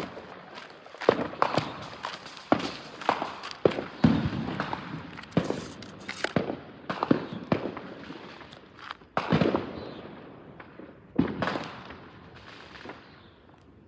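Fireworks going off: a long string of sharp bangs at irregular intervals, each with a brief echo, thinning out near the end.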